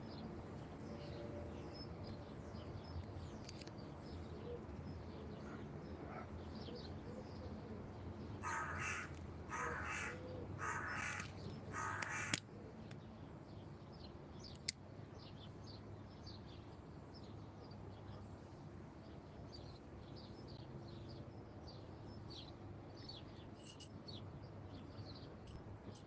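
A crow cawing four times in a row, about a second apart, over faint small-bird chirping.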